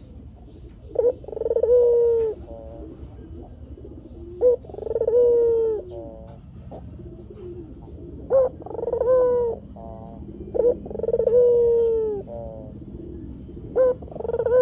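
White Barbary dove (puter) cooing in a repeated phrase, five times: each phrase is a short sharp note, then a long coo that rises and falls, ending in a rattling trill.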